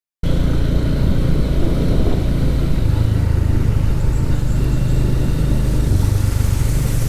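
112 cc TVS Victor motorcycle's single-cylinder engine running steadily on the road, with wind rushing over the microphone. It cuts in abruptly just after the start.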